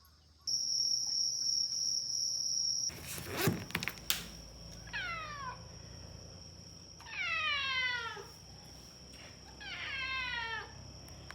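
A cat meowing three times, each a long call falling in pitch. Before the meows, a steady high-pitched whine lasts a couple of seconds and is cut off by a few sharp knocks.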